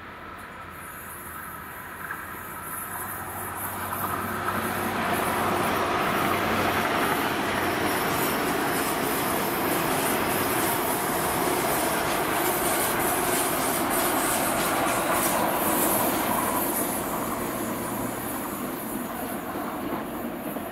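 Diesel passenger train passing: its running noise builds over the first few seconds, stays loud for about twelve seconds, and fades near the end.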